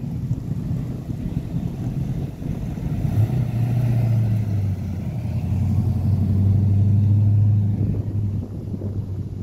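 Ford Falcon sedans driving slowly past one after another, engines running; one car's steady low engine note is loudest from about three to eight seconds in as it passes close.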